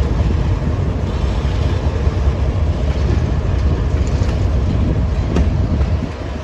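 Train running on the track: a steady low rumble with a few faint clicks of the wheels.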